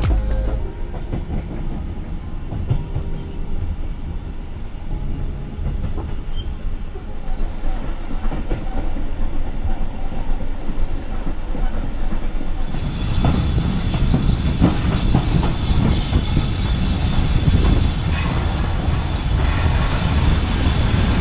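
Heritage railway train running along the line, its wheels clattering over the rail joints. A little over halfway through the sound gets louder and brighter.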